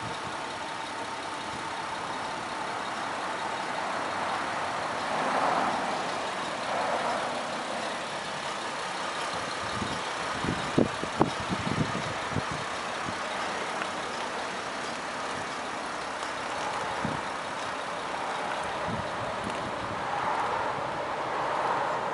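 Steady background noise of vehicles, swelling twice, with a brief cluster of clicks or knocks about halfway through.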